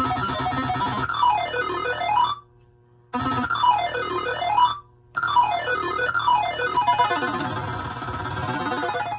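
Bally Xenon pinball machine's Sounds Plus board playing synthesized electronic game sounds: tones sweeping down and back up over and over, broken twice by short silences and cutting off suddenly near the end.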